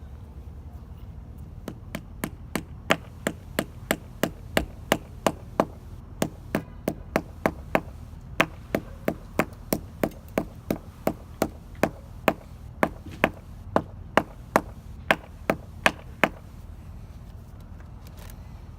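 Hammer tapping wall anchors into drilled holes: a steady run of sharp blows, between two and three a second, starting about two seconds in and stopping around sixteen seconds.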